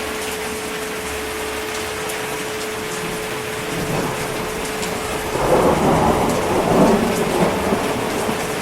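Steady heavy rain hissing, with a roll of thunder rumbling in about five seconds in and carrying on to the end.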